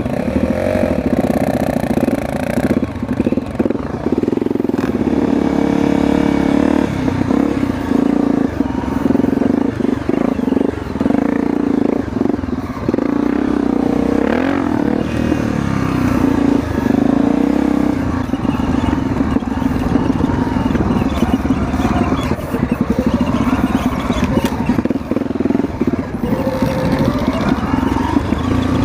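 Motorcycle engine running on a trail ride, the revs rising and falling as the throttle is worked, with some rattling over the rough ground.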